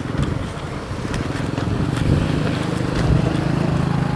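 An engine running steadily, its low hum growing stronger about two seconds in.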